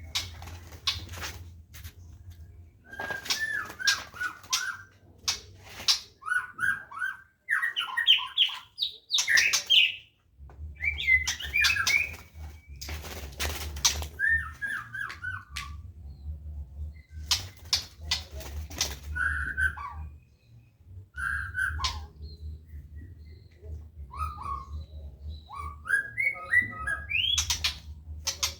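Caged songbirds chirping and calling in short, repeated phrases, mixed with wing flutters and frequent sharp knocks and clatter against the cages.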